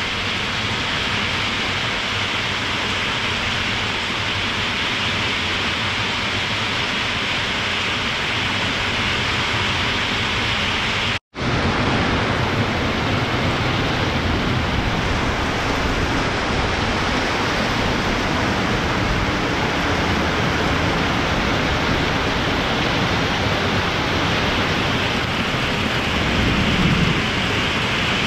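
Heavy thunderstorm rain pouring steadily on a roof, a dense constant hiss. It cuts out for an instant about eleven seconds in, then carries on heavier in the low end, with a low rumble swelling briefly near the end.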